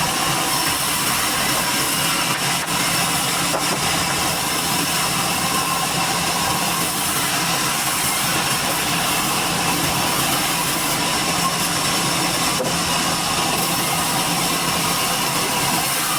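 Sawmill machinery running steadily, a constant mechanical drone with a few faint clicks.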